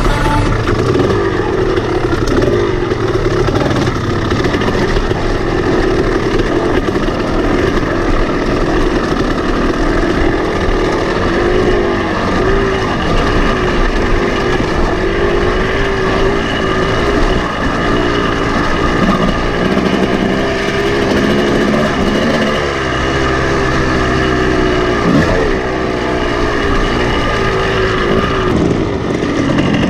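Kawasaki KX250 dirt bike engine running hard on a rough trail, its pitch rising and falling as the throttle is opened and closed over the rocks.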